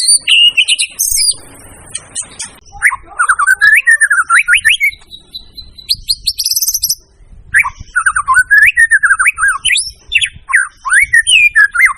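White-rumped shama (murai batu) singing loudly: varied phrases of fast sweeping whistled notes and trills, broken by short pauses.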